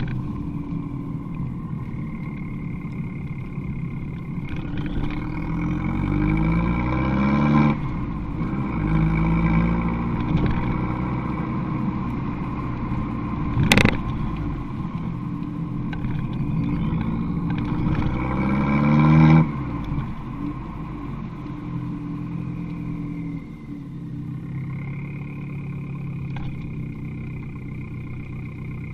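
Abarth 595 Competizione's turbocharged 1.4-litre four-cylinder running through an Akrapovic exhaust, accelerating twice, its note rising and then cutting off sharply each time. One sharp crack sounds between the two pulls.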